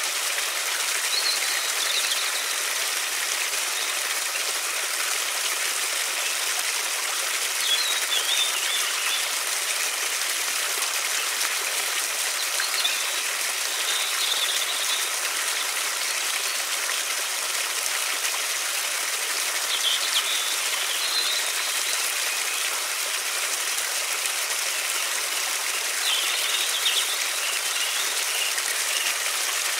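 River water flowing in a steady rush, with short bird calls every several seconds.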